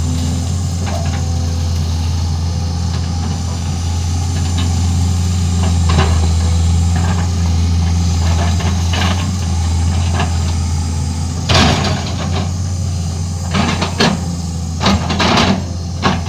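Excavator's diesel engine running with a steady low drone, with sharp knocks about twelve seconds in and several more near the end.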